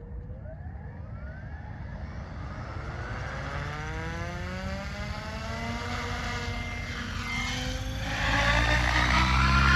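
Tron Elite 7.0 radio-controlled helicopter spooling up: a whine that rises steadily in pitch as the rotor comes up to speed, growing louder and fuller about eight seconds in.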